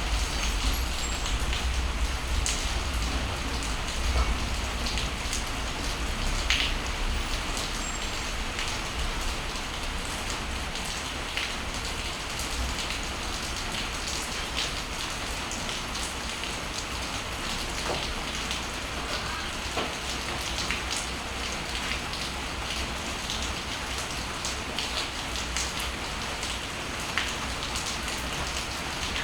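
Steady rain falling, with scattered individual drops tapping sharply close by. A low rumble underneath is strongest for the first several seconds, then eases.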